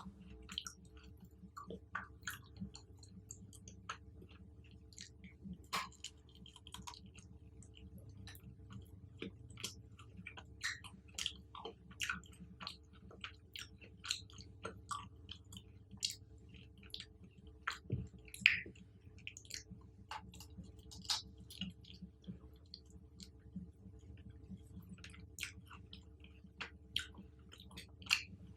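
Close-miked chewing of chocolate-covered fruit: irregular wet smacks and sharp mouth clicks, with a louder bite about 18 seconds in, over a faint steady hum.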